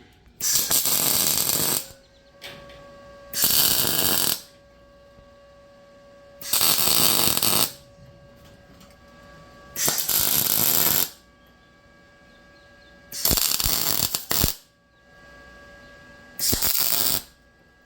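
MIG welder arc crackling in six short welds of about a second each, a few seconds apart: an Arccaptain MIG200 running 0.9 mm wire at about 21 volts and 130 amps on mild steel. A faint steady hum carries on between the welds.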